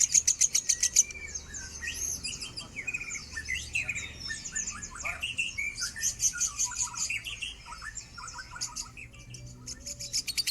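Lovebird singing: a fast rattling chatter of about ten notes a second breaks off about a second in into a run of varied high chirps and twitters, and the fast chatter starts again near the end.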